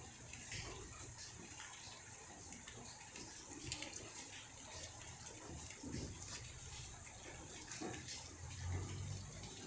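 Rain falling steadily, with water splashing and scattered drips and taps.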